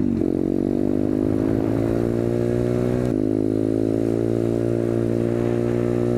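SSR125TR pit bike's 125cc four-stroke single-cylinder engine running under way at a fairly steady speed; its pitch dips briefly at the start, then rises a little and holds steady.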